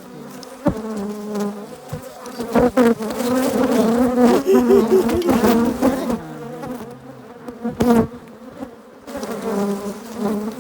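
Africanized hybrid honeybees buzzing loudly around an opened hive, their pitch wavering and gliding as bees fly close past the microphone, busiest in the middle. A few sharp knocks cut through it.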